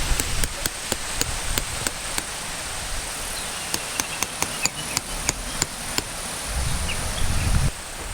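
Tent pegs being driven into the ground with a hammer: sharp knocks, two or three a second, over a steady high hiss.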